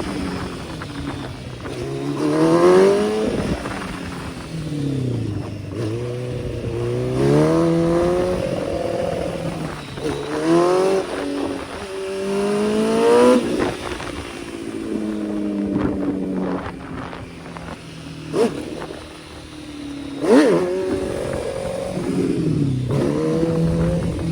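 Kawasaki ZX-10R's inline-four engine revving hard in several rising pulls, its pitch dropping back between them as the bike accelerates.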